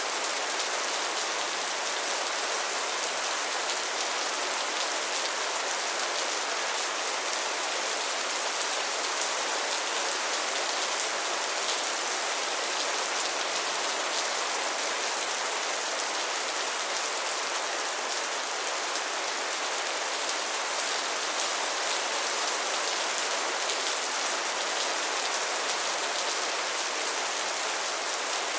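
Steady rain falling on a surface, an even hiss with many fine drop ticks and no change in intensity.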